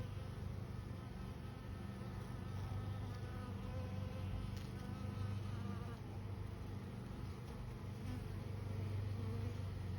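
Honeybees buzzing in a steady, low hum.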